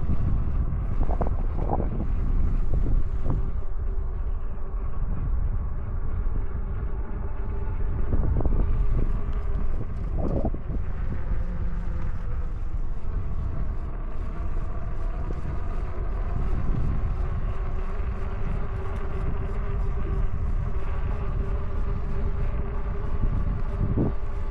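Wind buffeting the microphone of a moving e-bike, over a low rumble from the tyres on the trail, with a faint steady whine from the bike's electric hub motor.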